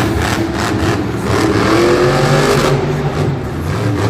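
Monster truck engine running loud in an arena. Its revs climb from about a second in and fall back near the three-second mark.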